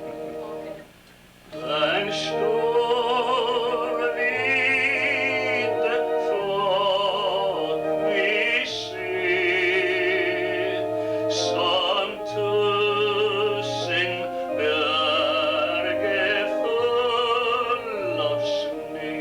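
A solo voice with wide vibrato sings slow phrases of a hymn over keyboard accompaniment with held bass notes, after a brief pause about a second in.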